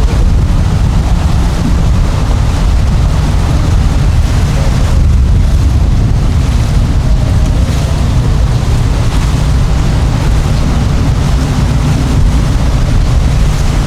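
Steady low wind rumble on the microphone mixed with boat engines running at a boat ramp.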